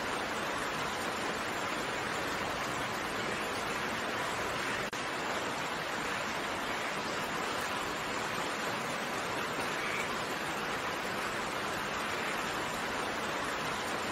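Steady rain, an even hiss of many drops with no distinct patter, with one momentary dip in level about five seconds in.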